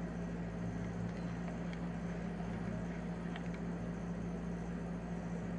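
Hard rain as a steady, even hiss, with a constant low hum beneath it and a few faint light ticks.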